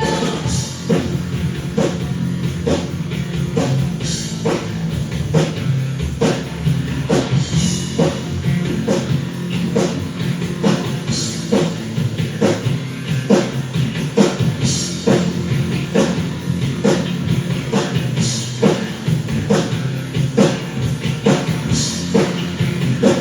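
Rock band playing live: an instrumental passage with a drum kit keeping a steady beat, about two hits a second, over bass and guitar, with no singing.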